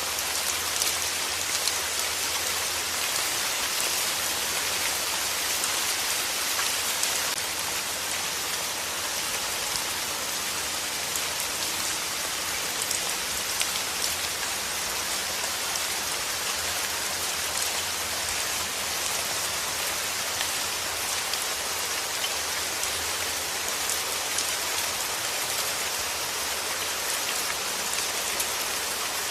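Steady rain falling and pattering on a surface, an even hiss of many fine drops with no let-up.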